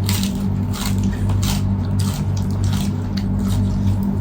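Eating sounds: chewing and soft wet squishes, with irregular small clicks of food and utensils, over a steady low hum.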